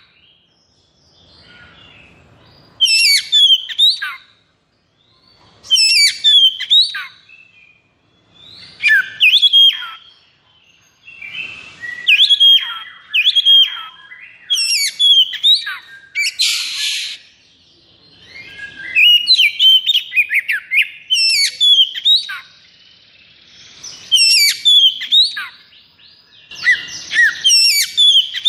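A male Oriental magpie-robin (kacer) singing loud phrases of rapid, sweeping whistled notes in repeated bursts of about a second, with short pauses between them. There is one brief harsh rasp about two-thirds of the way through.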